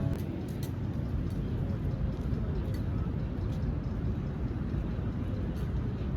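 Outdoor city ambience: a steady low rumble with a few light clicks.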